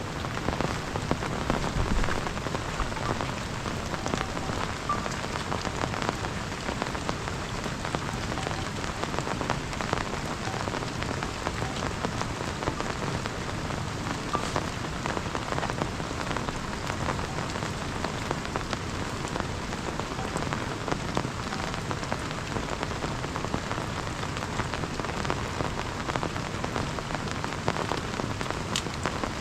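Heavy rain falling steadily, with dense patter of drops hitting a surface.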